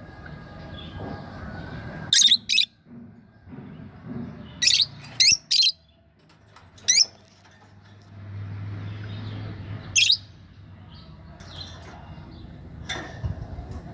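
Lovebird giving short, sharp, high-pitched chirps, singly and in quick groups of two or three, while the plastic wrapper it is attacking rustles and crinkles between the calls.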